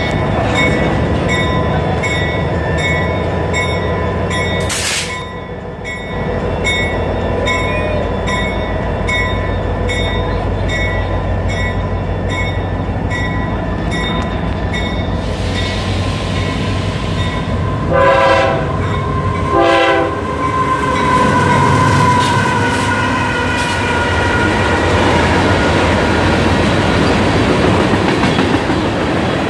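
Freight train rolling past with a steady rumble and the clatter of its wheels on the rails, first the CSX diesel locomotive and then a string of tank cars. About two-thirds of the way through, a train horn sounds two short blasts.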